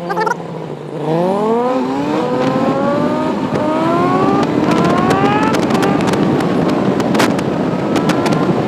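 Motorcycle engine accelerating hard through the gears: after a low note for the first second, the pitch climbs steeply and drops back at each of several upshifts, then keeps rising slowly at speed. Wind rush runs underneath, with sharp clicks or pops in the second half.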